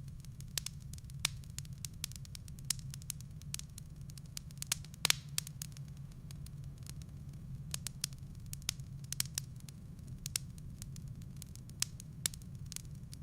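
Wood fire burning in a fireplace: irregular crackles and snaps over a steady low rumble, with a louder pop about five seconds in.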